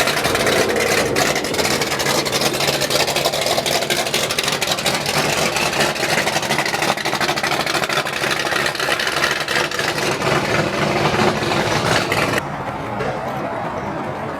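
A car engine running at idle, a steady crackly rumble that turns duller and quieter about two seconds before the end.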